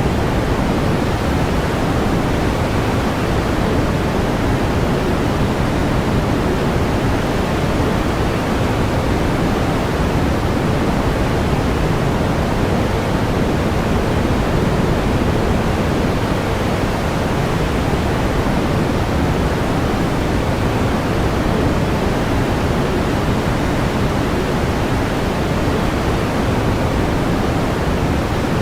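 Steady pink noise: an even, unchanging hiss weighted toward the low end.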